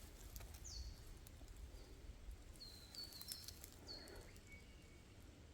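Faint bird calls in quiet bushland: a high whistled note sliding down about a second in, then a run of short high chirps, over a low steady rumble.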